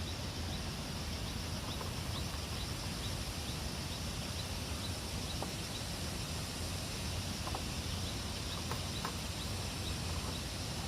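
Rural outdoor ambience: a steady background hiss with a short high chirp repeating about three times a second, and a few faint clicks.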